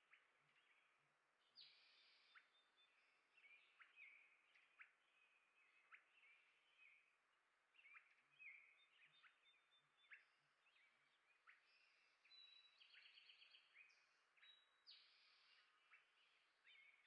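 Faint chirps and short trills from small birds, coming in a quick, irregular stream of high notes with no pauses of more than a second or so.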